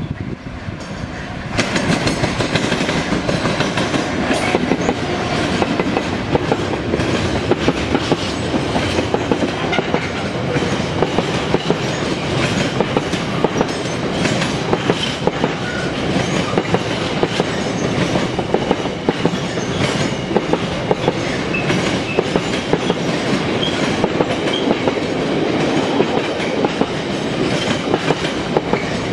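Freight train passing close by: a Freightliner Class 66 diesel locomotive comes through loudly about a second and a half in, followed by a long rake of container flat wagons. The wagons rumble past with a continual clickety-clack of wheels over rail joints.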